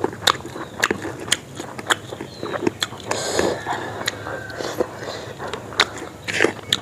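Close-up chewing of a mouthful of rice and chicken gravy: irregular wet mouth clicks and smacks, several a second.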